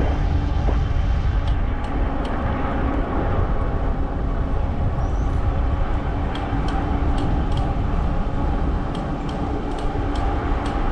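Riding noise of a 20-inch fat-tire e-bike under way: a steady low rumble of wind on the microphone and tires rolling. A faint steady hum and scattered light ticks run under it.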